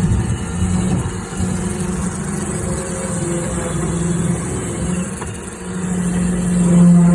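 A motor running with a steady hum that swells louder about six seconds in.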